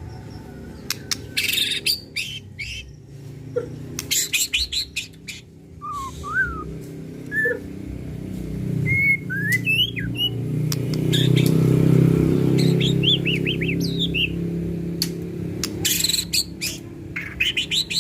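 White-rumped shama (murai batu) singing a varied, fired-up song of the kind used as a lure to provoke other shamas: harsh rapid rattling notes, short rising and falling whistles, and fast trilled runs. A steady low rumble runs underneath, loudest in the middle.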